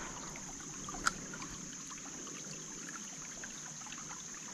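Faint ambience of a small creek trickling, with a steady high-pitched insect drone over it and a single sharp click about a second in.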